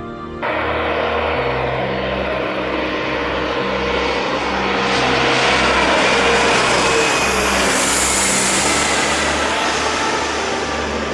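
Twin-engine jet airliner passing close, its engines a rushing roar that swells to a peak around the middle with a whine falling in pitch as it goes by. Trance music with a steady beat plays underneath.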